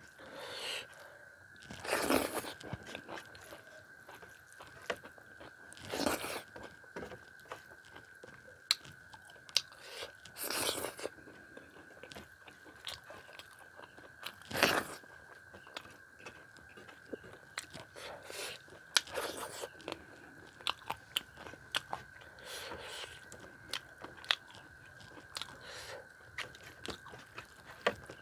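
Close-miked chewing of mouthfuls of rice and curry eaten by hand, with many small wet mouth clicks and louder chewing bursts every few seconds. A faint steady whine runs underneath.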